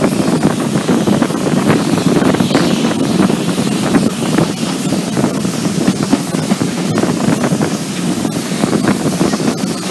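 Loud, steady running noise of a steam-hauled railway carriage on the move: wheels rumbling and clattering on the track, with wind buffeting a microphone held at an open window.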